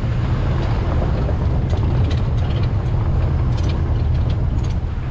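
A safari vehicle's engine running while driving: a steady, loud low rumble.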